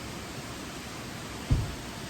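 Steady hiss-like background noise, with one short low thump about one and a half seconds in.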